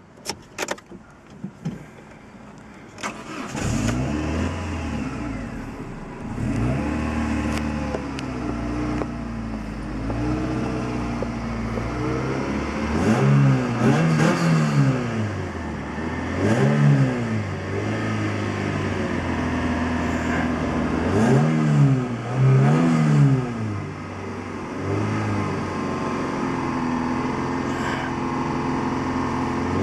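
A few clicks, then a car engine starts about three seconds in and runs, revved several times, its pitch rising and falling with each rev.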